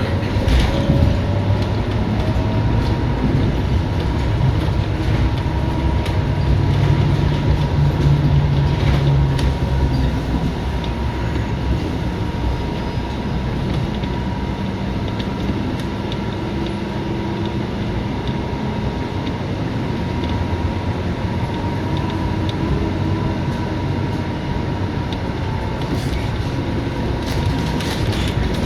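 Interior sound of a Scania K230UB city bus on the move: the engine and drivetrain run steadily under road and cabin noise, with a thin, steady high whine throughout. The engine note grows louder for a few seconds about a quarter of the way in, and a few short knocks or rattles come through, most of them near the end.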